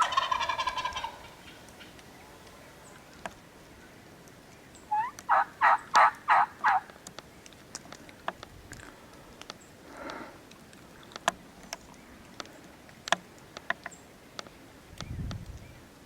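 Wild turkey gobbler gobbling at close range: a loud rapid rattling gobble in the first second, then about five seconds in a second run of five loud notes.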